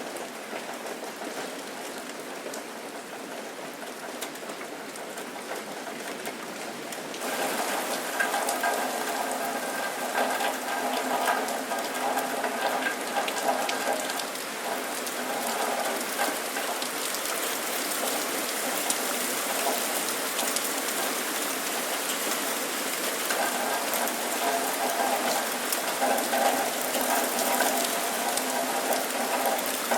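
Steady rain, which turns louder and brighter about seven seconds in. A faint drone of steady tones comes and goes underneath it.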